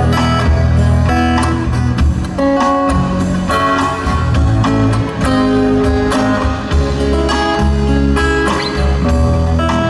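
A live band plays an instrumental passage between sung lines, led by guitar over steady bass.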